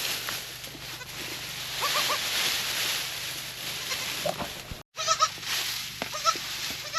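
Goats giving a few short bleats over a steady rustle of straw bedding being spread.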